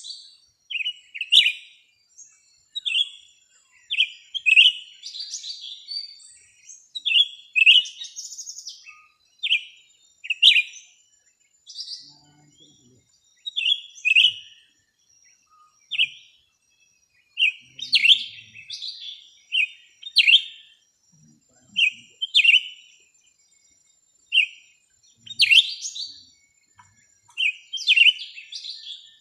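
Small birds chirping: short, sharp calls repeated about once or twice a second, over a faint steady high tone.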